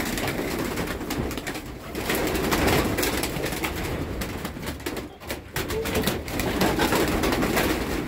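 Racing pigeons cooing in a loft, a continuous murmur from several birds, with frequent small clicks and rustles over it.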